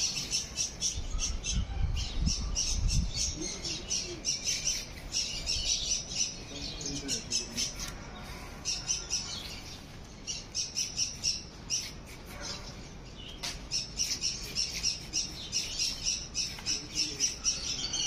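Birds chirping rapidly and continuously, many short high calls overlapping, with a brief low rumble about two seconds in.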